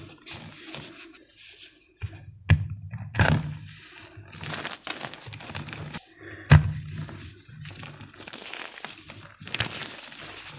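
Blocks of gym chalk being crushed and crumbled by hand: a gritty crumbling with sharp cracks about two and a half, three and six and a half seconds in.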